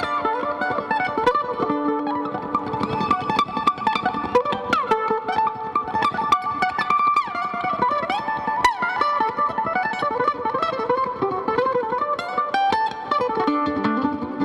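Fast mandolin solo, picked in rapid runs of notes with a few sliding notes mixed in.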